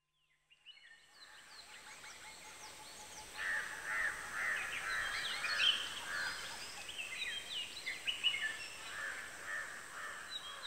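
A chorus of many birds chirping and calling over a steady hiss. It fades in after a second of silence and grows louder about three and a half seconds in.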